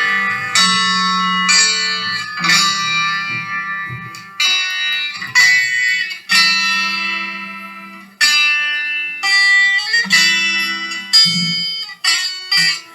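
Solo guitar music: chords plucked about once a second, each left to ring and fade, with a few held longer.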